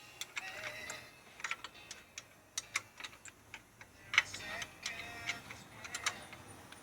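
Irregular light clicks and metal clinks from hand tools and engine parts being handled during engine disassembly, the sharpest one about four seconds in.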